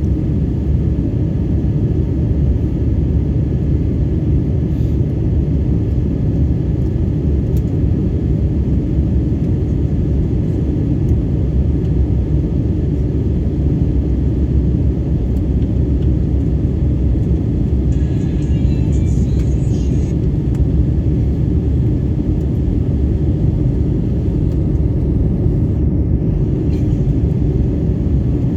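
Steady low rumble of an Airbus A320neo's engines, running evenly, with a brief faint hiss about two thirds of the way through.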